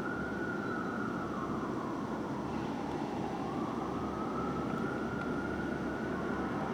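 Fire engine siren on a slow wail, its pitch rising and falling about once every five seconds, over a steady low rumble of engine and road noise.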